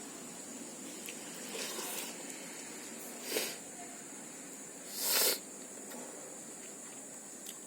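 Eating sounds of a person taking mouthfuls of pakhala, watery fermented rice: three short, noisy slurps. The one about five seconds in is the loudest. A steady high hiss sits underneath.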